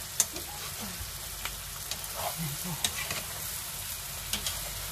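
Dried eggplant sizzling in hot olive oil in a pan while being stirred, with several sharp clicks of the utensil against the pan.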